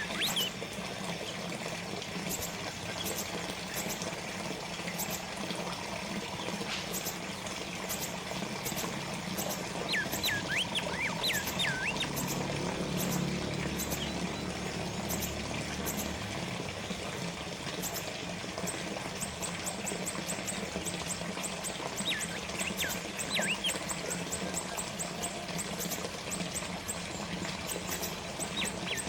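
Small water fountain trickling and splashing steadily. A bird chirps over it in short runs of quick notes, a few times.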